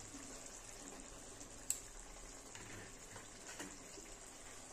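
Thick spice masala sizzling faintly in a kadai over the flame. A single light click comes a little under two seconds in.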